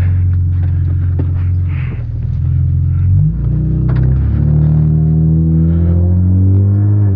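Car engine heard from inside the cabin as the car drives on: a steady low drone for the first few seconds, then, about halfway through, it rises steadily in pitch as the car accelerates.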